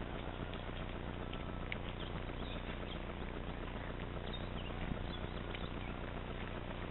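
Steady outdoor background noise with a few faint high chirps in the second half and a single soft knock about five seconds in.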